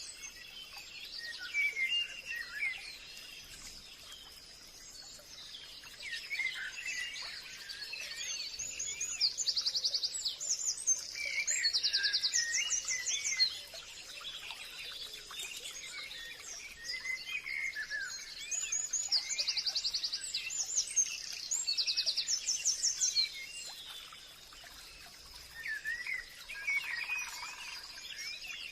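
Forest birdsong: several birds calling, with repeated rapid high trills that come in clusters a few seconds apart and varied chirps and whistles below them. A faint steady high-pitched tone runs underneath.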